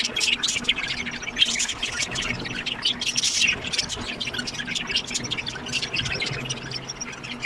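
Budgerigars chirping and squawking continuously, many rapid short calls overlapping.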